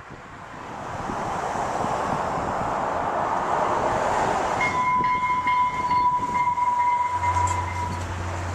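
Train running past with a rushing noise that builds over the first few seconds. About five seconds in, the train horn sounds one steady note for about three seconds over some clicking, and a low hum comes in near the end.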